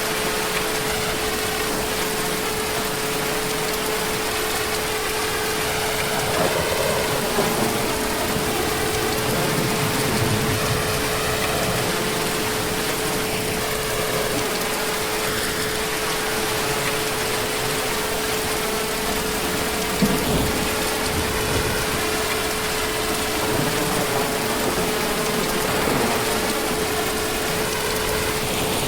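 Heavy rain falling steadily, a dense even patter, with a steady hum running underneath and an occasional louder drop or knock.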